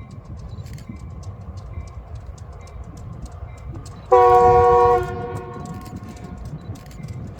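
Train rumbling along the rails, with one short blast of a locomotive's multi-chime air horn about four seconds in, lasting just under a second and clearly the loudest sound.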